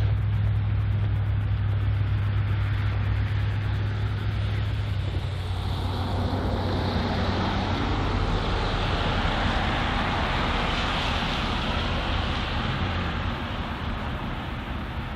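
Freight train passing: a diesel locomotive's steady low engine hum fades over the first few seconds, giving way to the even, rushing noise of rail cars rolling by on the track.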